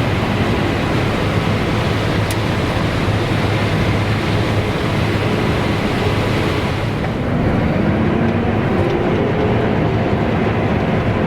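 Heavy farm machinery's diesel engine running steadily under load, with a broad mechanical hiss. About two-thirds through, the high hiss drops away and the engine note rises.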